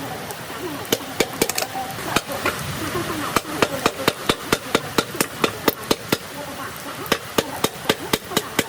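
Hammer striking metal repeatedly, about four sharp blows a second, with a short pause about two seconds in.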